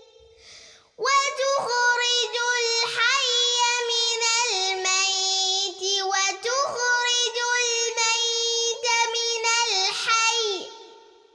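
A young girl chanting Quran recitation in a high, melodic voice. After a short pause and a faint breath, she sings one long, ornamented phrase beginning about a second in, and her voice trails off near the end.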